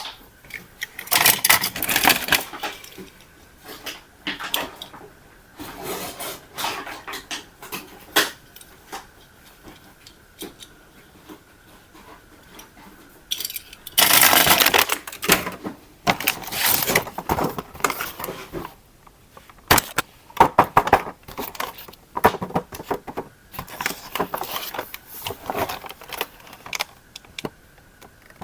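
Hard plastic clicking, clattering and rustling in irregular bursts, the sound of a plastic toy and its packaging being handled.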